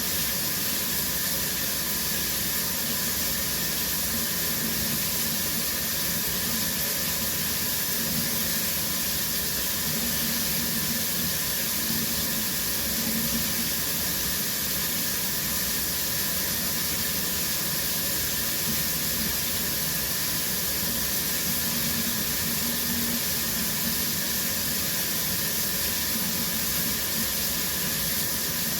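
Shower running steadily, water spraying from the showerhead and splashing down in a constant hiss.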